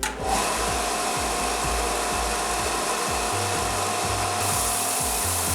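Belt grinder running steadily with the steel of a chef's knife blade held against the belt, a loud grinding hiss with a constant whine, taking deep scratches out of the blade.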